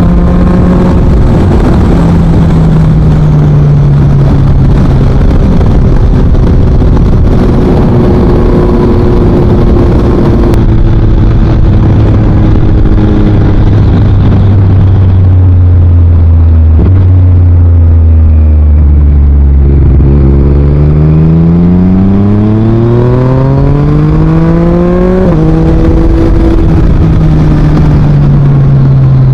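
2023 Yamaha MT-09's 890 cc inline-three through an Akrapovič full exhaust, heard on the move. The engine pitch drops in steps several times in the first half, sinks to its lowest about two-thirds of the way in, then climbs steadily under acceleration, with a gear change near the end and another climb after it.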